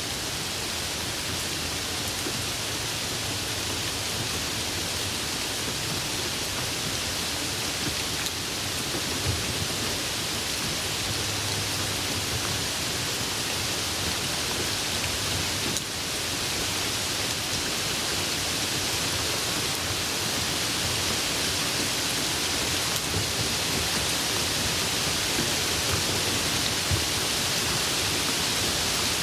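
Steady tropical rain falling: a continuous even hiss with a few louder drop impacts, swelling slightly toward the end.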